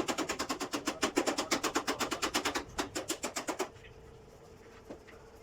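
Rapid, even hammer taps on a sheet-metal door panel being beaten back into shape, about nine strikes a second, stopping abruptly about three and a half seconds in. A faint steady hum continues underneath.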